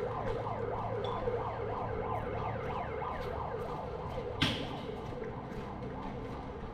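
Electronic siren rapidly warbling up and down in pitch, used as a signal in an airsoft game. About four and a half seconds in comes a single sharp crack.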